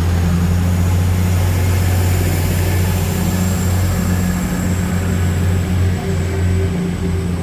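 Diesel engines of a Class 222 Meridian train running at the platform: a steady, loud low drone with a faint high whine above it.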